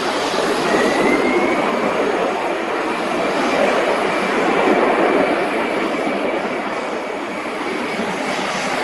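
Jet engines of an ANA Cargo Boeing 767-300 freighter running loud and steady, with a high whine that rises slightly about a second in and then holds.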